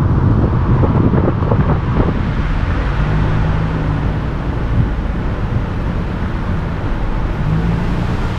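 Steady low rumble of a car on the move, engine and road noise, with wind buffeting the microphone.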